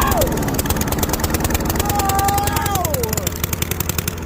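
Straight-piped single-cylinder lawn mower engine running with its muffler and air box removed, its exhaust firing in a fast, even crackle.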